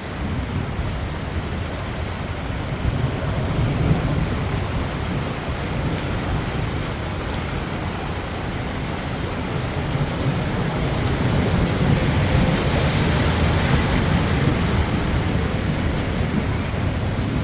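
Heavy rain pouring steadily during a thunderstorm, with low rumbles of thunder swelling a few seconds in and again past the middle, where the rain's hiss grows louder.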